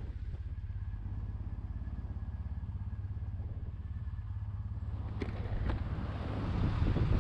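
Triumph Bonneville SE's 865cc parallel-twin engine running steadily at low speed, heard from on the bike. There are two short clicks about five seconds in, and the sound grows louder near the end.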